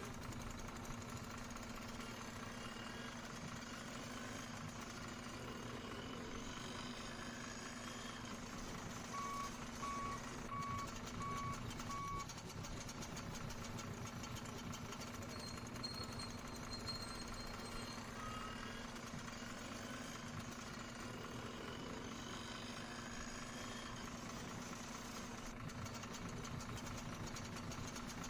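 Truck engine idling steadily, with a reversing alarm beeping five times, about two beeps a second, partway through.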